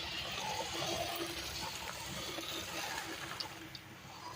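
Steady, wet hiss of water with a little splashing.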